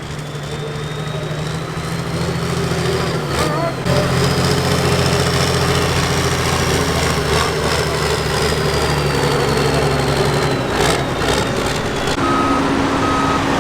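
Turbocharged diesel super farm tractor pulling the sled under full load. The engine note builds over the first few seconds and then holds steady, with a high turbo whistle that rises and slowly falls. Near the end a reversing alarm starts beeping.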